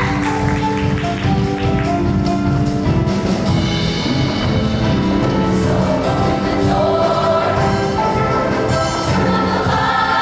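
Show choir performing with its live band: the choir sings long held chords over the band's accompaniment and a steady beat.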